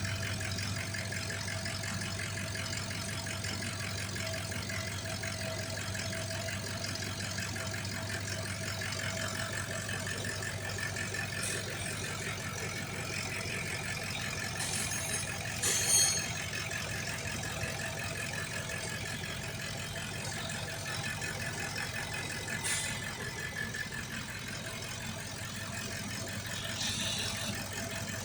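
High-mileage Toyota Land Cruiser 4.5-litre engine idling steadily, with a few brief clicks, the loudest about 16 seconds in.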